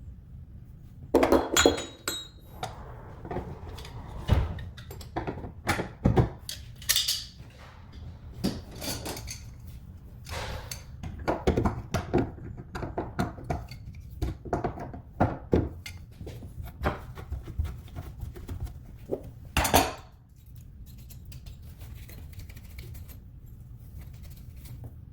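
Small metal parts and tools clinking and knocking against each other and hard surfaces, irregularly and in quick clusters, during a faucet repair. The clinks stop about 20 seconds in, leaving a steady low hum.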